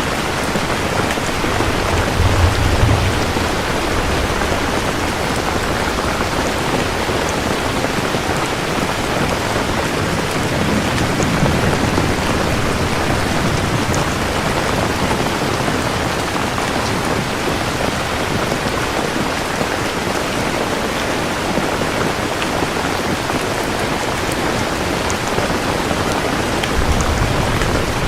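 Steady, heavy rain pouring down. Low thunder rumbles roll in three times: a few seconds in, around the middle, and near the end.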